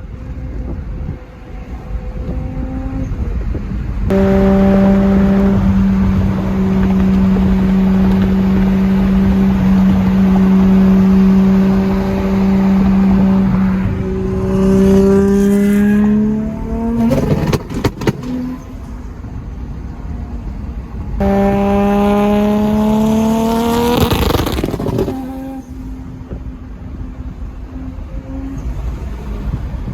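Heavily modified Toyota Supra Mk4's inline-six under hard acceleration: a loud held engine note climbs in pitch twice. A rapid burst of sharp pops from the exhaust comes as the revs peak about halfway through, typical of its anti-lag system.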